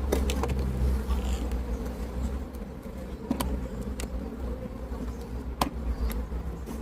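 Honeybees buzzing steadily around an opened hive, with a few sharp clicks and knocks.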